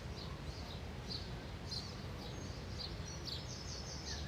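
Outdoor ambience: small birds chirping in short, high notes every half second or so over a steady low rumble.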